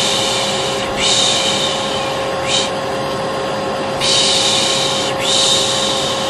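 A person shushing 'shh, shh' (the Turkish 'piş piş' lulling sound used to soothe a baby) in about five hisses, most about a second long and one brief. Under them a vacuum cleaner motor runs with a steady hum and whine.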